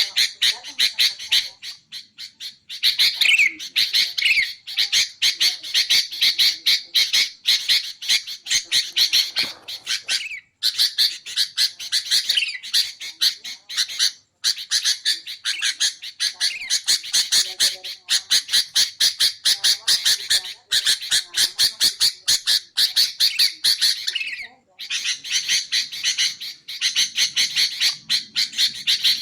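Sooty-headed bulbuls (kutilang) calling in a fast, continuous run of sharp repeated notes, with a few short breaks.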